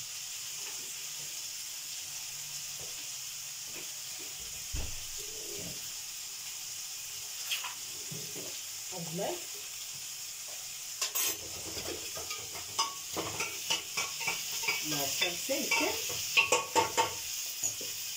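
Onion-tomato masala with capsicum and peas sizzling steadily in a kadai over a gas flame. From about 11 seconds in, a spatula scrapes and knocks against the pan as the masala is stirred, with the clicks coming thick and fast near the end.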